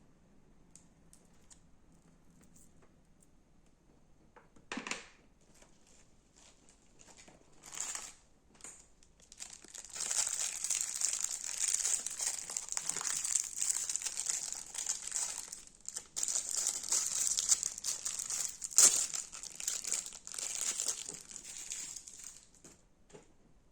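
Crunchy slime being squeezed and kneaded by hand. A few brief squishes come first, then a long stretch of dense, continuous crackling with one louder crack about three-quarters of the way through. The crackling dies away near the end.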